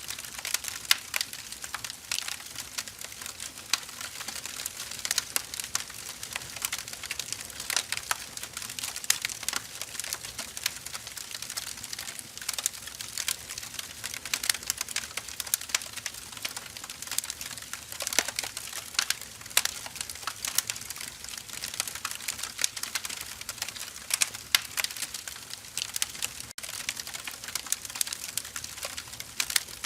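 Firewood burning, with dense irregular crackles and pops over a steady hiss.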